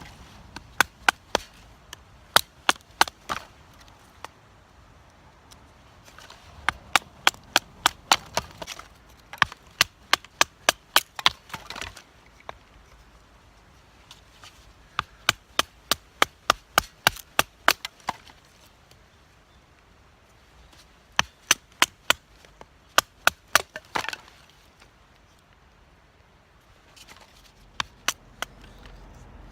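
Flint struck against a carbon-steel fire striker (hikiuchigane) to throw sparks onto char cloth: sharp, bright clicks in bursts of several quick strikes, about three or four a second, with pauses of a few seconds between bursts.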